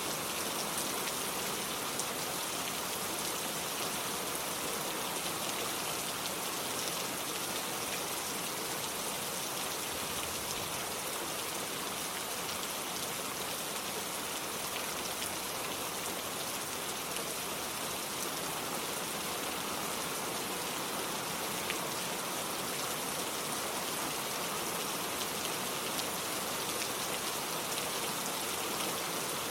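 Steady rain falling and pattering on surfaces, with a dense even hiss of drops.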